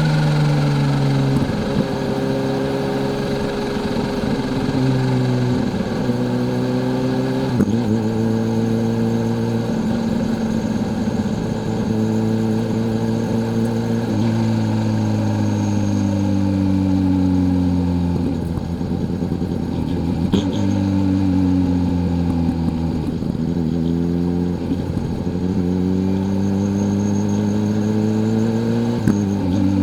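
Kawasaki Z H2's supercharged inline-four engine on the move, its pitch rising and falling as the bike accelerates, eases off and changes gear several times, with sudden drops in pitch at the shifts.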